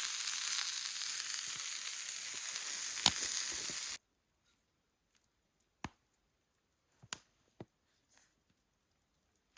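Food sizzling in a small frying pan, a steady high hiss that cuts off abruptly about four seconds in. After that it is nearly quiet, with a few faint, sharp clicks.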